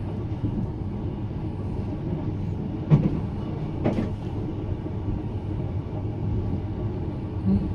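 Steady low rumble of a moving sleeper train heard from inside the compartment, with two short knocks about three and four seconds in.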